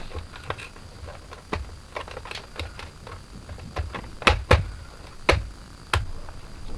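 Irregular light clicks and taps, with a few sharper knocks about four to six seconds in.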